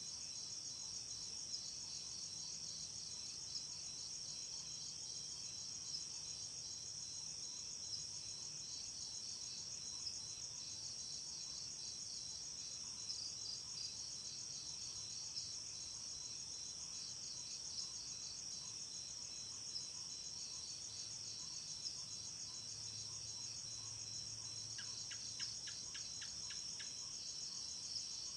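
Night insect chorus, mainly crickets: a dense, high, continuous trill with a steadier pulsed tone beneath it and a slightly louder chirp about every two seconds. Near the end, a quick run of about eight clicks.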